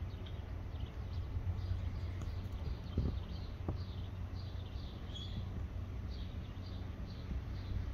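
A small bird chirping over and over, short high chirps about two a second, over a low steady rumble of wind on the microphone. Two soft knocks sound about three seconds in.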